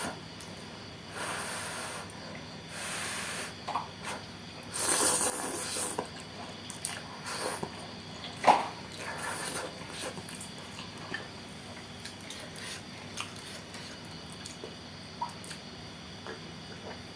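Close-up eating sounds of a person eating mie nyemek, a semi-soupy noodle dish. Several short breathy slurps come first, the longest about five seconds in, followed by quieter chewing with small wet clicks and smacks, including a sharp click about eight and a half seconds in.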